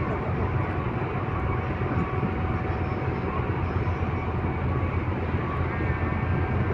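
Steady low drone of a passenger ferry's engines heard on board, with a faint steady hum above it.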